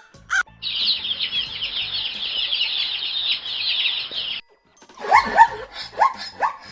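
A crow's final caw at the very start, then a dense chorus of many small birds chirping that cuts off abruptly, followed near the end by a few short calls rising in pitch.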